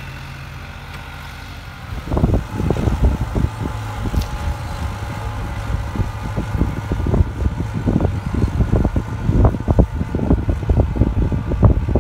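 Tractor engine running steadily with a low hum. About two seconds in, loud, irregular low thumping and buffeting join it and continue.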